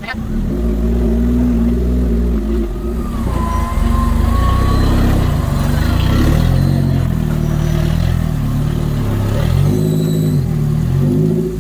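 Four-wheel-drive engine revving as the vehicle works over a rocky off-road track, its pitch rising and falling several times.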